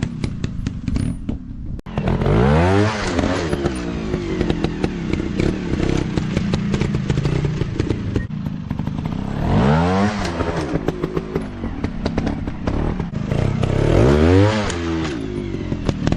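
Dirt bike engine revving up and falling back again and again, with the biggest rev rises about two and a half, ten and fourteen and a half seconds in, over a constant clatter and crackle.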